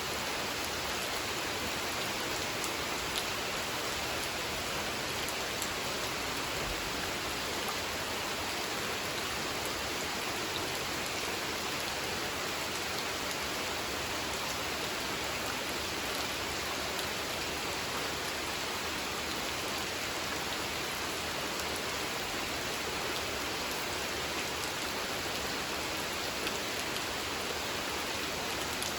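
Steady rain falling on a pond's water surface, an even hiss with scattered small drop ticks.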